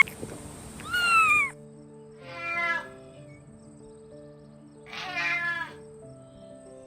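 A kitten meowing three times, each call under a second long, over soft background music with held notes. A rustling, chewing-like noise stops abruptly about a second and a half in.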